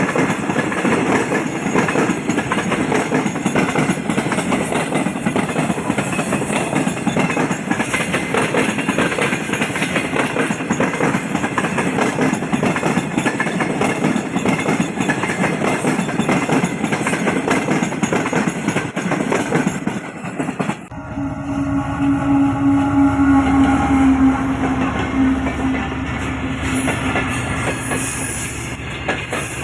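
A train running on the rails, its wheels and cars rumbling and clattering for about twenty seconds. After an abrupt change, a train horn sounds one long steady note for about five seconds over the rumble of the train.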